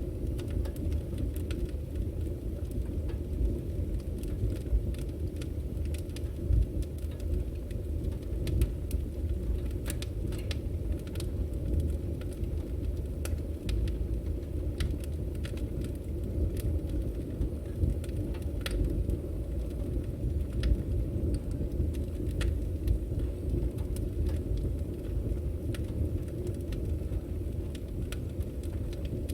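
Burning firewood: a steady low rumble of flames with frequent sharp crackles and pops from the logs.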